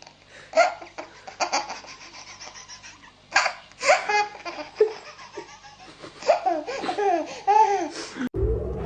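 Hearty laughter in irregular bursts, with high, gliding pitch; near the end it cuts off and music begins.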